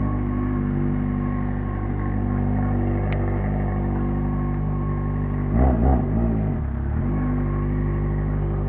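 Yamaha XJ6 motorcycle's inline-four engine running loud at a steady speed, with two quick throttle blips about five and a half seconds in before it settles back.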